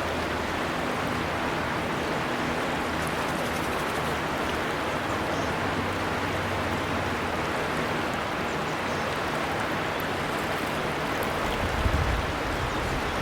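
River water flowing steadily in an even rushing wash, with a brief low rumble near the end.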